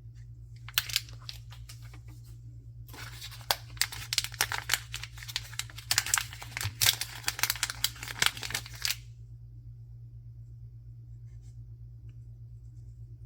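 Blind-box packaging being torn open and crinkled by hand: a short rustle, then about six seconds of dense crackling and tearing that stops suddenly, leaving a steady low hum.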